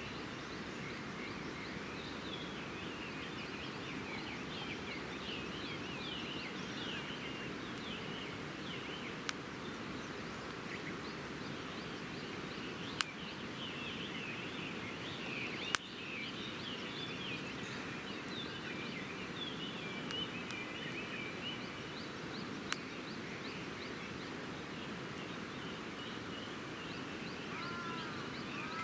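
Wood campfire burning over a steady background hiss, with four sharp pops spaced several seconds apart. Many small birds chirp throughout.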